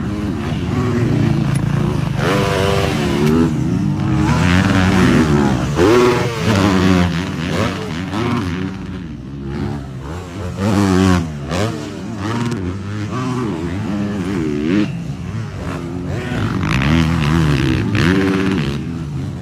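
Yamaha 450 four-stroke motocross bike engine revving hard while ridden, its pitch climbing and dropping again and again as the throttle is worked.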